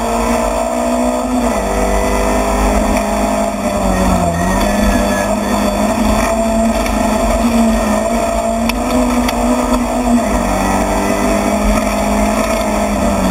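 Rally car engine running hard at high revs, heard from inside the stripped cabin, with the revs dipping briefly three times: about a second and a half in, around four seconds and around ten seconds in.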